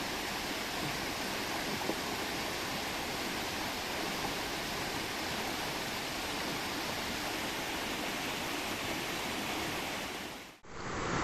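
River water rushing steadily over rocks in a cascade: an even, unbroken wash of water noise. Near the end it dips out for a moment and comes back with less hiss.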